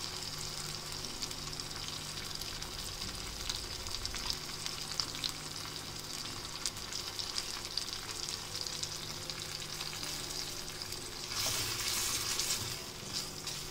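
Chicken gizzards in a thick onion-tomato masala sizzling steadily in a small wok, with scattered little crackles; the masala is well fried down. Near the end, a louder stretch of about a second and a half as a wooden spatula stirs through the pan.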